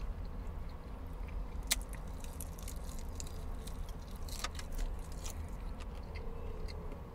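A man biting and chewing fried chicken, with scattered short crackles and mouth clicks over the steady low hum of a car's cabin.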